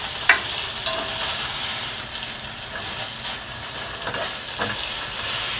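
Chicken pieces with ginger, garlic and spices sizzling in very hot oil in a frying pan as they are browned and stirred with a spatula. There is a steady frying hiss, and the spatula knocks and scrapes against the pan, with one sharp knock about a third of a second in.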